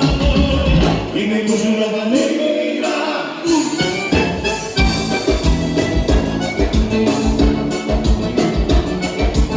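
Live gaúcha dance-band music, accordion-led, with a steady bass and drum beat. The bass and drums drop out for about two seconds near the start, then come back in.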